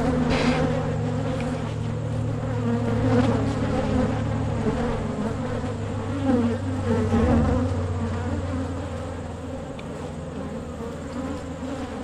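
Many honey bees buzzing loudly around an opened hive, a dense wavering hum: the colony is agitated and defensive, which the beekeeper takes as a sign of a queenless hive.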